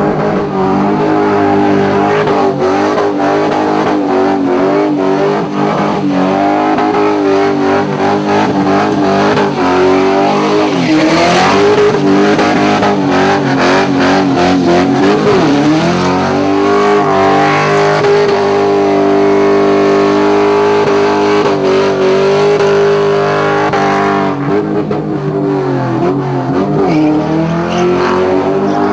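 Holden VT SS Commodore's LS1 V8 held at high revs through a burnout, its rear tyres spinning. The engine note stays steady, with the revs dipping and climbing back a few times.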